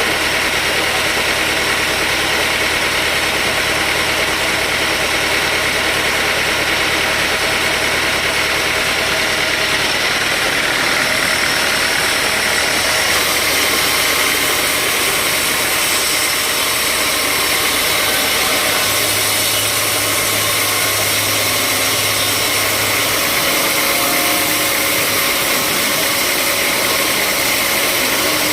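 Sawmill machinery running steadily, an engine with a constant hiss over it; the sound shifts slightly about halfway through.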